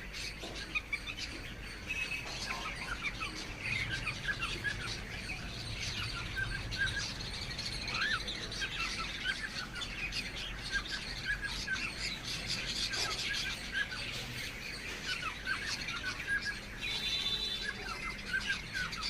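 Cage birds, cockatiels among them, chirping continuously: many short chirps from several birds overlapping. Near the end there is a quick run of repeated high notes.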